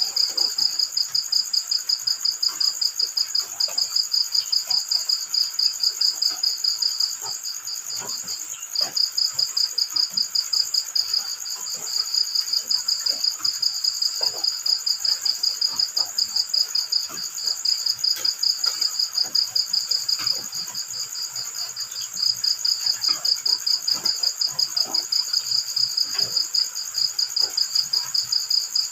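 Crickets chirping in fast pulsed runs several seconds long, broken by short pauses, over faint scattered taps of light drizzle.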